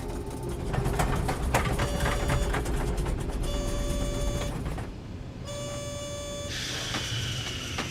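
Airliner cockpit during the landing roll: a steady low rumble of engines and runway, with a warning tone sounding three times, each about a second long.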